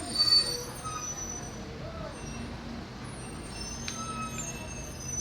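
Street traffic noise: a steady low rumble of passing vehicles, with a short, loud, high-pitched sound about a quarter-second in.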